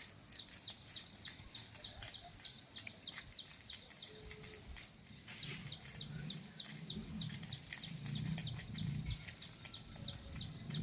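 Birds chirping in quick, high, repeated chirps, several a second, with a short break about halfway. Lower-pitched calls join in over the second half.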